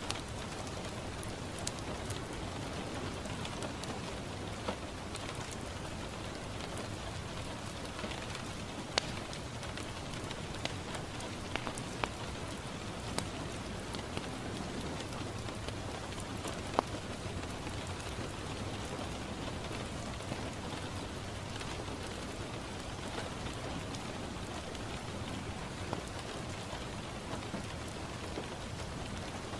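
Steady rain falling on a window, with a few sharp crackles and pops from a wood fire scattered through it.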